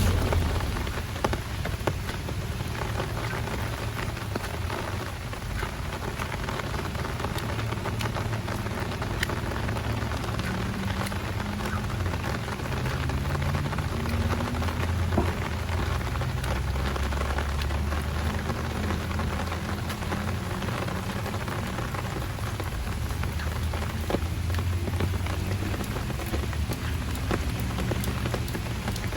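Heavy rain falling steadily, a dense hiss with many close drops ticking, and a low rumble underneath through the middle stretch.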